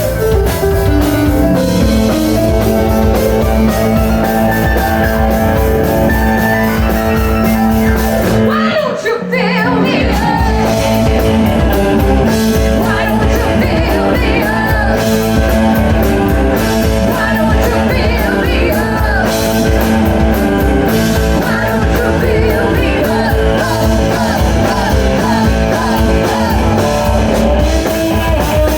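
Rock band playing live, with singing over guitar, bass and drums. About nine seconds in the band drops out briefly before coming back in at full volume.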